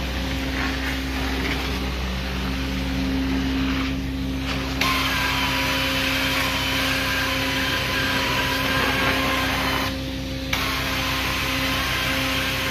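Carpet-cleaning extraction vacuum running steadily as the wand is worked over the carpet: a hum with a loud airy hiss and a faint suction whistle. The hiss drops out briefly twice, about four seconds and ten seconds in.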